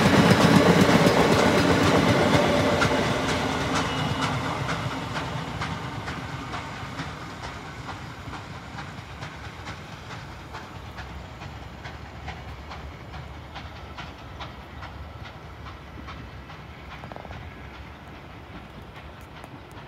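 Passenger coaches of a steam-hauled train rolling past, wheels clicking over the rail joints. About three seconds in, the sound begins to fade steadily as the train behind the Ol49 steam locomotive pulls away into the distance.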